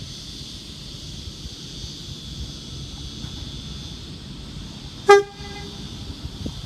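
A V-set intercity electric train's horn gives one short toot about five seconds in, over a steady high background hiss.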